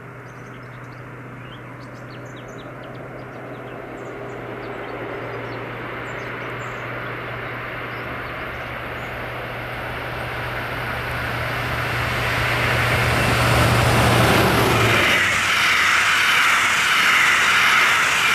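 Diesel regional express train approaching and passing: a steady engine drone grows louder, and about three seconds before the end it gives way to a loud rush of wheels on rails as the train goes by. Birds chirp faintly at the start.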